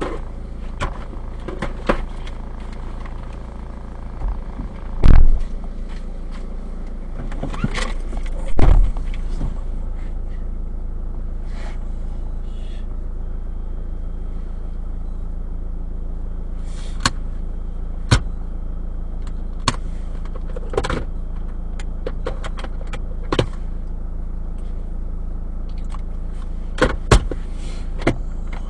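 Car cabin noise while the car is driven: a steady engine and road hum. Scattered clicks and knocks run over it, with two loud thumps about five and nine seconds in.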